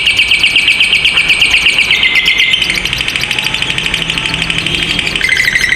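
Lovebird giving a long, continuous chattering trill (the "ngekek panjang" call): rapid high-pitched notes in an unbroken run, the pitch dropping about two seconds in and again near the end.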